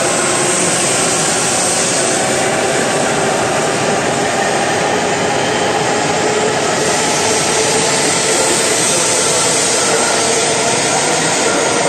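E7 series Shinkansen train pulling out of the station and gathering speed past the platform: a loud, steady rush of wheels on rail and moving air as the cars go by close at hand.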